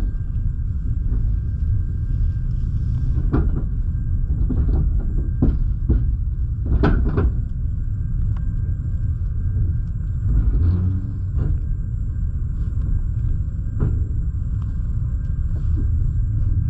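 Double-decker passenger train coach running slowly, heard from inside: a steady low rumble with irregular clacks and knocks as the wheels cross rail joints and points, and a faint steady whine. The knocks bunch together a few seconds in, then come again twice later.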